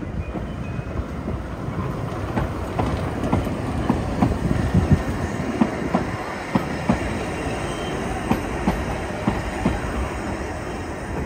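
3 ft gauge steam train passing close by: a steady rumble of the carriages, with their wheels clicking irregularly over the rail joints, loudest about four to five seconds in.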